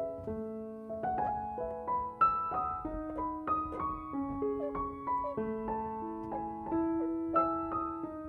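Background music: a gentle, slow solo piano melody with sustained notes.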